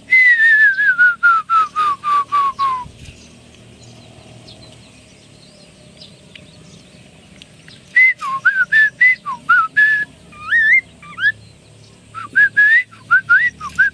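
Poksay Mandarin laughingthrush singing loud, clear whistled notes. It opens with a run of about a dozen quick notes stepping down in pitch, then goes quiet for several seconds, then sings a varied phrase of rising and dipping whistles that continues to the end.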